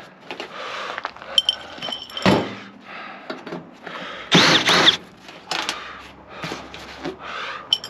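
Screws being taken out of a microwave's sheet-metal casing: scattered metallic clinks and knocks, with a short burst of a power screwdriver a little over four seconds in.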